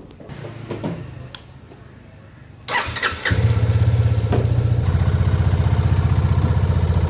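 Motorcycle engine being started: a brief crank about three seconds in, then it catches and settles into a steady idle with a regular pulsing beat.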